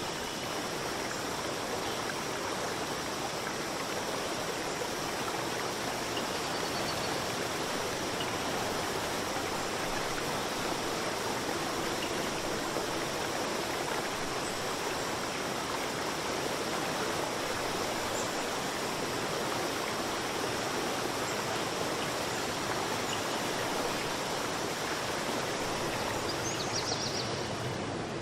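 Steady rushing of flowing water, as from a stream, at an even level throughout.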